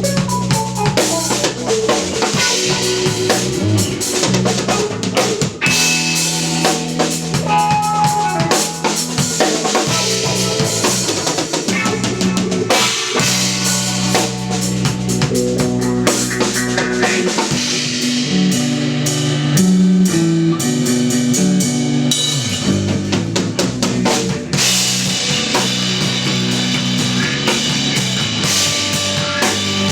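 Instrumental progressive/post-rock trio playing live: a drum kit with bass drum and snare hits drives the music over held electric bass and electric guitar notes.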